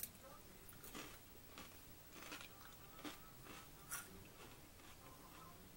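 Faint crunching of a person chewing Wasa whole grain crispbread, a crisp crunch about once a second.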